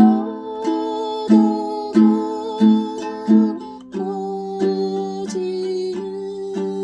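Ukulele played fingerstyle in an arpeggio pattern, with a new plucked note about every two-thirds of a second.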